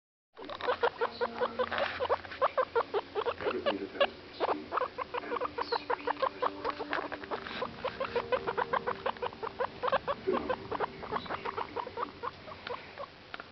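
Guinea pigs, a mother with her week-old pups, making rapid, irregular short clicks and rustles, several a second, that start about half a second in.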